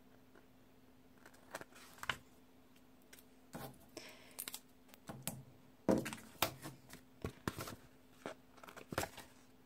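Scissors snipping and paper sticker sheets being torn and handled, in scattered short snips and rustles over a faint steady hum.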